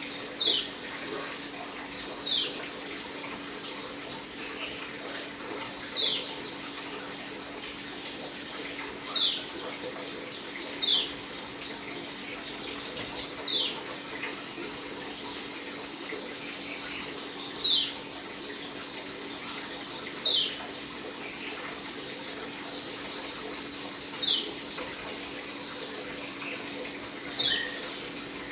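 Pleci (white-eye) of the Dakun type giving single sharp, high chirps that slide downward, about one every two to three seconds. A steady water-like hiss runs underneath.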